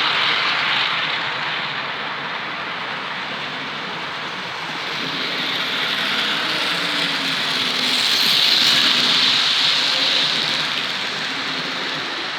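OO gauge Bachmann BR Standard Class 5MT model steam locomotive running on the track, a rushing whir of wheels and motor with a faint hum. It grows louder as the locomotive comes close, loudest about two-thirds of the way in, then fades. Its motor is worn and close to failing.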